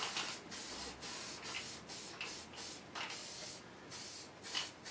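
Aerosol can of weld-through primer spraying in a run of short hissing bursts, several a second.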